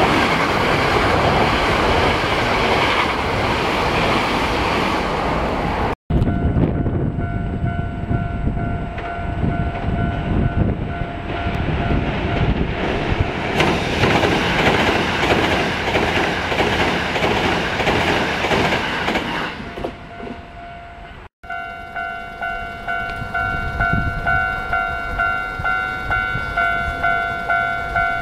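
Hankyu electric train running on the rails with clickety-clack wheel noise, in several shots cut together. In the last few seconds a steady ringing tone pulses about one and a half times a second over the train noise.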